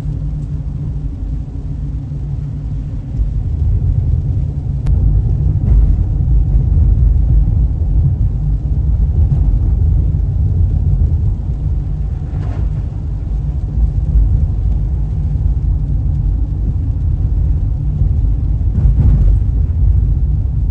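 Road and engine noise heard inside a moving car's cabin: a steady low rumble that grows louder about three to four seconds in.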